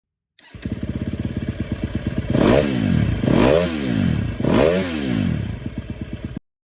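KTM 250 SX-F motocross bike's single-cylinder four-stroke engine running at a steady low speed, then revved with three quick throttle blips whose pitch rises and falls. It cuts off suddenly near the end.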